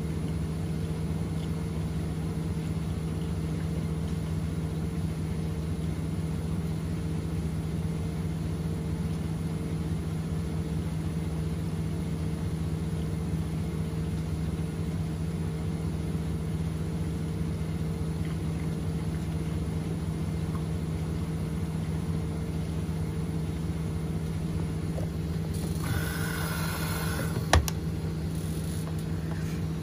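Front-loading washing machine running with a steady motor hum during a down-wash cycle. Near the end there is a brief hiss and then a single sharp click.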